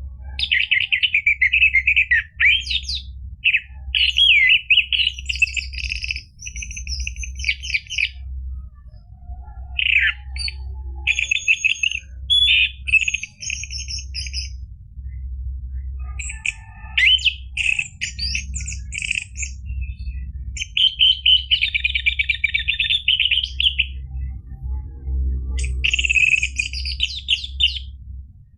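Orange-headed thrush singing: rapid, varied trilling song phrases a second or two long with short pauses between them, over a steady low hum.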